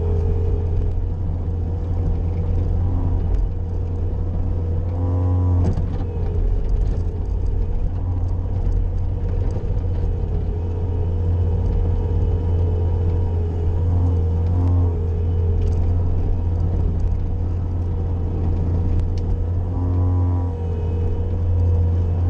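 Bobcat skid-steer loader's diesel engine running steadily under load while clearing snow. A constant whine sits over the engine note, and short pitched sounds come through three times.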